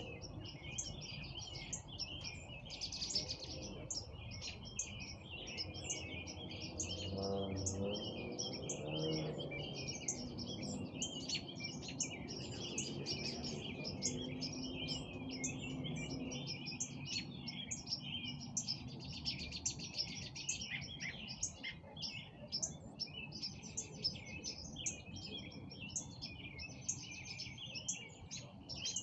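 Dense chorus of many small birds chirping and calling over one another, with no pauses. A faint low hum with a steady pitch comes in about seven seconds in and fades out around sixteen seconds.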